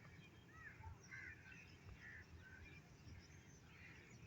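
Faint, scattered short bird chirps over a low, steady background rumble.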